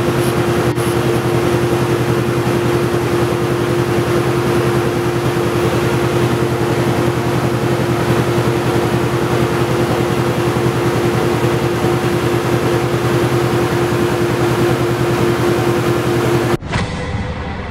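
Polaris RZR 570's single-cylinder engine running loud through an HMF Swamp Series full system exhaust on a dyno, held at a steady engine speed with no rise or fall in pitch. It cuts off abruptly near the end.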